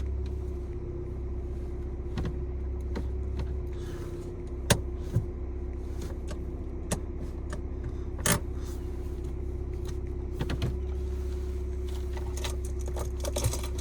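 Steady low hum of a 2.0-litre diesel engine idling, heard from inside the car's cabin, with a few sharp clicks from the interior controls, the loudest about five and eight seconds in.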